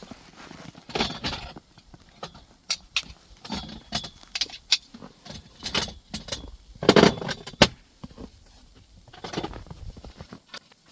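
Irregular clicks, clinks and rustles of objects being handled, with a louder rustling burst about two-thirds of the way through.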